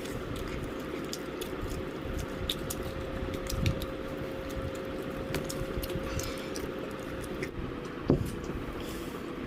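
Eating sounds: a person chewing and handling fried chicken, with many small crackles and clicks and a couple of soft thumps. A faint steady hum runs underneath and stops near the end.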